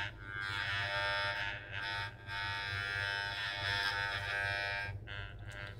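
Wahl 300 electric hair clipper running with a steady buzz, its loudness dipping briefly a few times. The blade has been refitted with two screws, and the clipper runs without the abnormal noise it made after the blade was wrongly sharpened.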